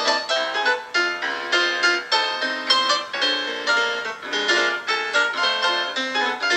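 Solo piano music, notes struck in a quick, even rhythm of about three a second.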